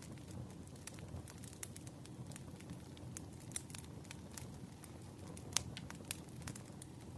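Wood fire burning, crackling with irregular sharp pops over a low steady rumble; one louder pop about five and a half seconds in.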